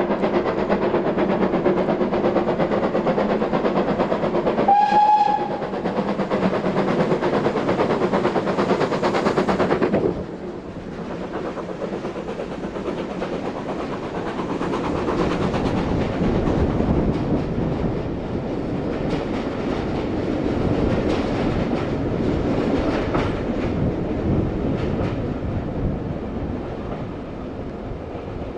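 Train passing at speed: heavy running noise with a short horn note about five seconds in. The sound drops suddenly about ten seconds in, giving way to wheels rolling and clicking over rail joints.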